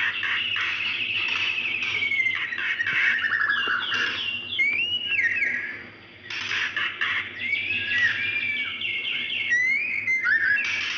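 Female white-rumped shama calling to draw a male: a steady run of rapid trills and whistled notes that slide up and down, with a short break about six seconds in.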